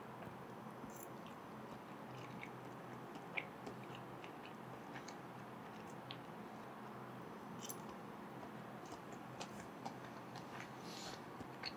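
Faint chewing of a soft egg omelette cooked in butter, with small irregular mouth clicks, two of them a little louder about a third of the way in and again past the middle.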